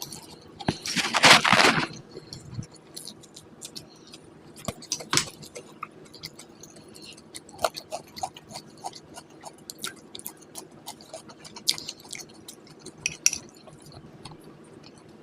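Close-miked eating sounds: a loud crunchy bite about a second in, then chewing with many short mouth clicks scattered through the rest.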